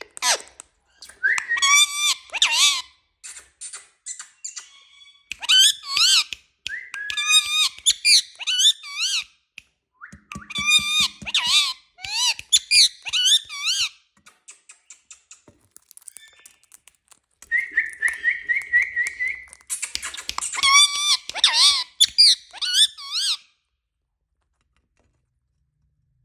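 A pet parrot calling in a string of short, high-pitched bursts of squawky chatter and wavering whistles, with a fast warbling trill about two-thirds of the way through; it falls silent a few seconds before the end.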